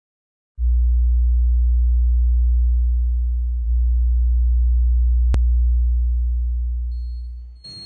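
Loud, deep low hum like a pure tone, starting about half a second in, dipping briefly and coming back near the middle, with one sharp click a little later; it fades out near the end.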